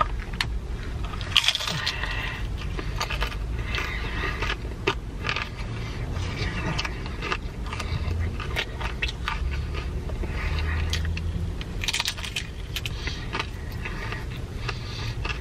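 Close-up chewing of a crunchy deep-fried taco, with clusters of crackling crunches and wet mouth sounds over a low steady hum.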